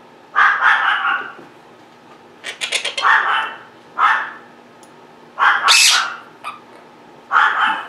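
Quaker parrots (monk parakeets) giving harsh, raspy squawks, five separate calls each under a second long, with short pauses between them.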